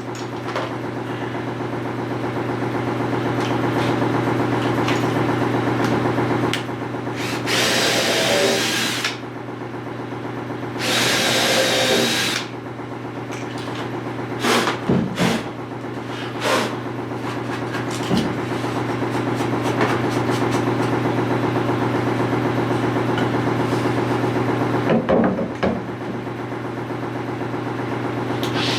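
Power drill running, drilling holes and driving screws into a wooden 2x2 frame, over a steady motor hum, with two louder grinding bursts and scattered knocks and clicks.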